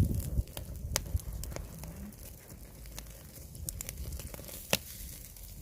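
Wood fire under a cauldron crackling, with a handful of sharp pops over a low rumble.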